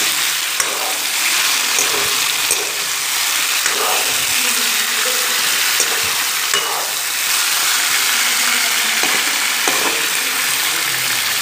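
Raw mutton and potato chunks sizzling in hot oil in a metal kadai, stirred with a metal ladle that now and then clicks and scrapes against the pan.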